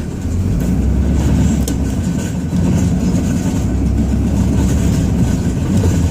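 Ram 2500's Cummins inline-six turbo-diesel engine running steadily while plowing, heard from inside the cab as a low drone.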